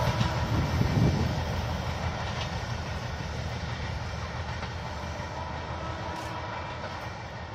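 Passenger train's coaches rolling away along the track, a low rumble that is loudest in the first second and then fades steadily as the train recedes.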